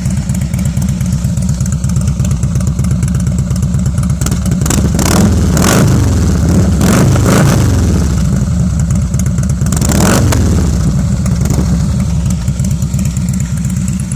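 Harley-Davidson Softail Slim S V-twin idling with a thick, rumbly note through a Rinehart 2-into-1 exhaust. It is blipped up with the throttle and falls back to idle three times, about five, seven and ten seconds in.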